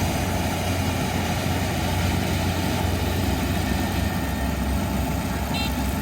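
Kubota ER470 combine harvester's diesel engine running steadily with a low drone. A high-pitched electronic warning beep starts just before the end, repeating about every two-thirds of a second, like a reversing alarm.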